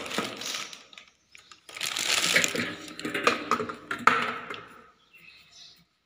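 Clear plastic bag around a washing machine's inlet hose crinkling and rustling as it is handled, in irregular bursts with sharp clicks, stopping briefly about a second in and fading out about five seconds in.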